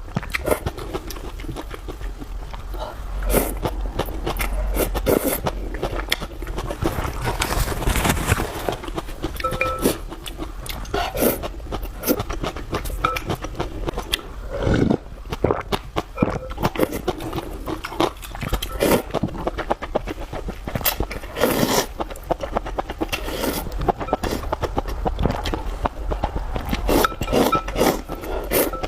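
Close-miked eating sounds: a person chewing and smacking food, with many quick wet mouth clicks and a few longer slurps.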